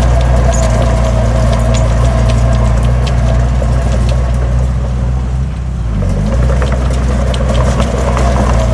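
Heavy diesel engine of earthmoving machinery running steadily, with scattered sharp metallic clanks. The engine note dips briefly a little past halfway, then picks back up.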